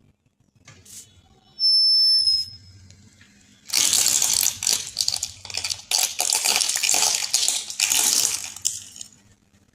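Brittle objects being crushed: loud crunching and crackling in a string of bursts lasting about five seconds, preceded by a brief high-pitched squeak about two seconds in.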